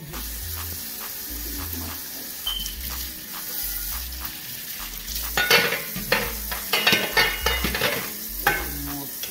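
Food sizzling in a hot cooking pot, a steady hiss, with a metal spoon and pot clattering from about five seconds in.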